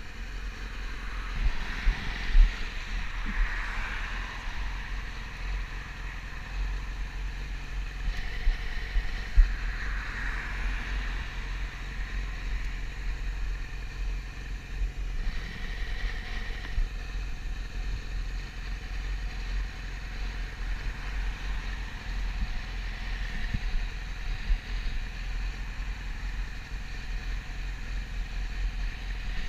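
Wind buffeting the GoPro microphone on a moving Yamaha YZF-R6, with the bike's inline-four engine running steadily underneath.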